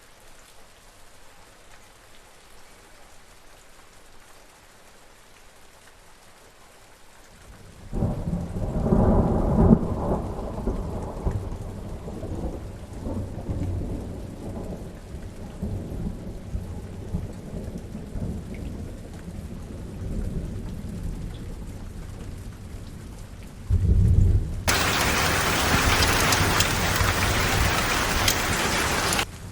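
Rain falling as a soft, even hiss, then thunder breaks in suddenly about a quarter of the way in and rolls on for several seconds. A second rumble of thunder comes near the end, followed by a burst of much heavier, louder rain that cuts off abruptly.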